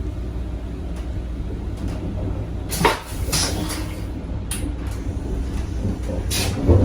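Steady low rumble of a moving Amtrak Venture passenger car, with a few sharp clunks and rattles of restroom fittings about three seconds in and again near the end.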